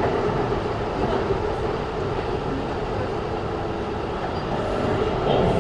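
Keikyu New 1000 series electric train running, heard from inside the passenger car: steady rumble of wheels on rails with a constant-pitched hum, growing a little louder near the end.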